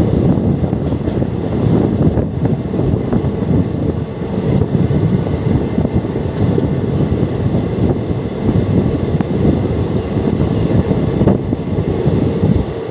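Express train running along the line: a loud, steady rumble of wheels on rails.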